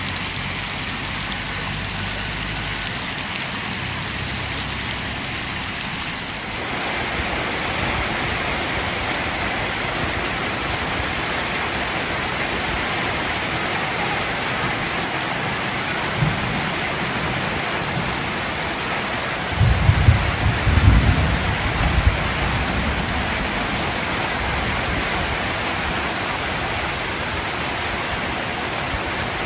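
Heavy rain falling steadily, growing louder about six seconds in. A low rumble, the loudest thing heard, comes about twenty seconds in and lasts a couple of seconds.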